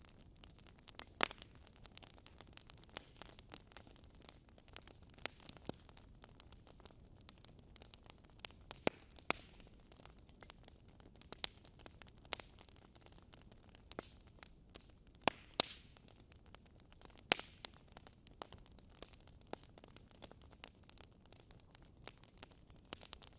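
Wood fire crackling in a fireplace: sharp pops and snaps at irregular intervals over a steady hiss.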